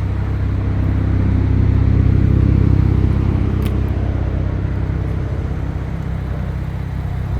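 Ram 1500 RHO's twin-turbo 3.0-litre inline-six running through its custom exhaust: a steady low drone that swells a little about two seconds in and then eases off, with one brief tick midway.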